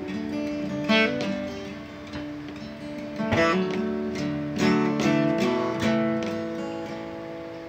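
Acoustic guitar strummed, a handful of chord strokes with the strings ringing on between them, closing out a folk song after its last sung line.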